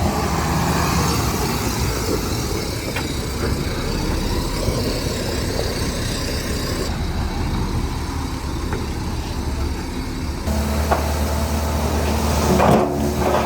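Heavy earthmoving machinery running steadily, a bulldozer and dump trucks at work, with scattered clanks and knocks. The engine note shifts abruptly about seven and ten seconds in, and a brief louder surge comes near the end.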